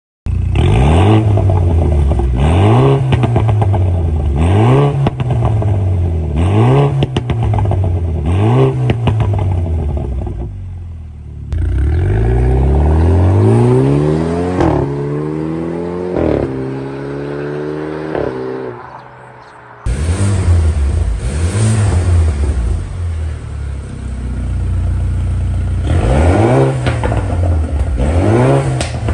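BMW 328i turbocharged four-cylinder through an aftermarket valved stainless exhaust, revved in short blips about every two seconds. In the middle the car accelerates, the pitch climbing through several upshifts. Near 20 s the sound changes abruptly and the repeated rev blips return.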